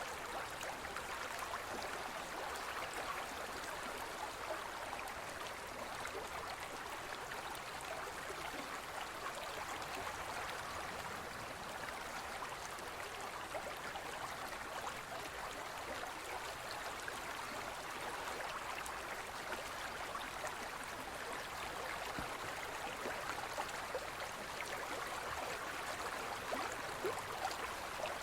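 Forest stream flowing: a steady rush of water with many small splashes.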